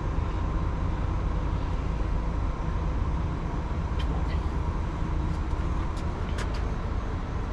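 A large diesel engine idling steadily, with a few sharp clicks about four seconds in and again around six seconds.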